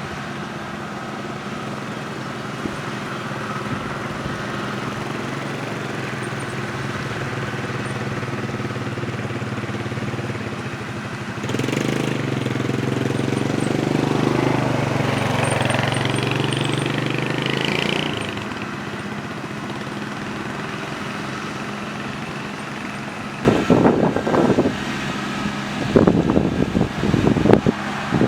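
Kubota combine harvester's diesel engine running steadily. For about six seconds midway the sound swells louder and deeper. Near the end, irregular loud rumbling bursts break in.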